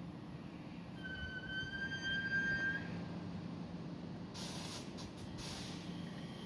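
A train at a station platform: a high, steady, slightly rising tone lasts about two seconds, then a few short bursts of hiss follow, over a low steady hum.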